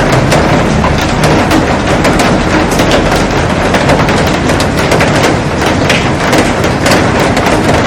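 Heavy rain falling on a glass roof and garden: a loud, steady hiss of rain with many sharp drop hits on the glass.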